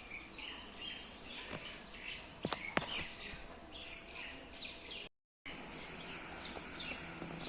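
Small birds chirping and twittering again and again, with a few sharp clicks around the middle. The sound cuts out completely for a moment near the end.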